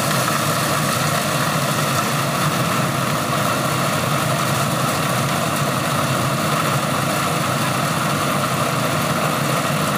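Engine-driven corn sheller running steadily, a constant mechanical din from its motor and threshing drum.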